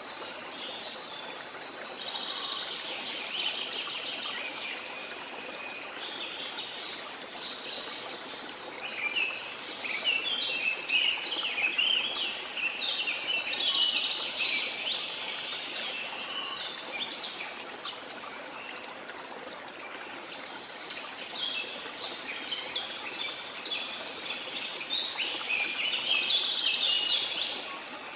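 Chorus of many small birds singing and chirping continuously, over the steady rush of a waterfall.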